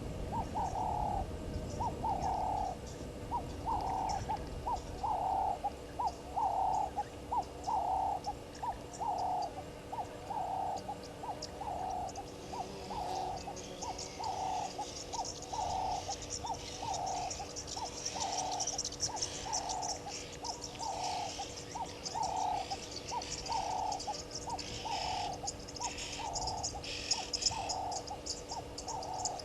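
An animal calling in a steady, unbroken series of short low notes, about one and a half a second. About halfway through, a high insect chirring joins in.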